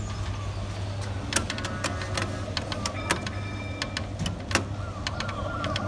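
Coin-operated fire-engine kiddie ride running: a steady electric-motor hum with scattered clicks and knocks from the mechanism, and faint electronic tones from its low-volume speaker.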